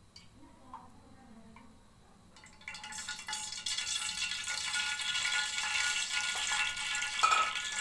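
Cooking oil going into a karahi: faint small sounds at first, then from about two and a half seconds in a steady sizzling hiss as the oil heats in the pan.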